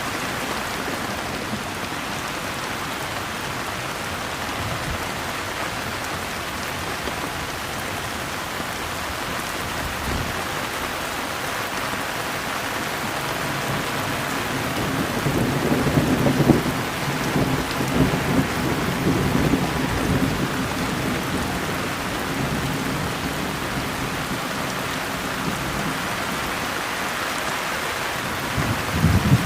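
Steady rain with a low rumble of thunder that swells about halfway through and dies away, and another rumble starting near the end.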